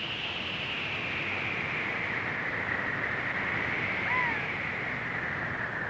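Steady rushing noise with a slowly swelling and fading hiss, and one short chirp about four seconds in.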